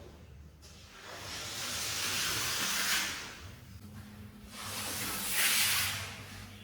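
Two long hissing spray passes over a wet rug during cleaning, each swelling and fading over about two seconds, the second starting about four and a half seconds in.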